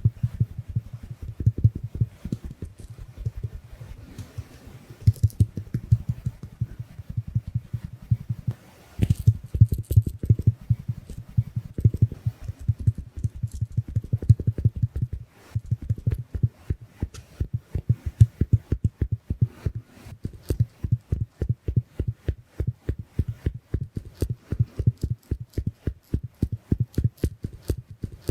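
Mini makeup puff sponge dabbing rapidly on the microphone, a steady run of soft low thuds several a second, with brief breaks about a third of the way in and again about halfway.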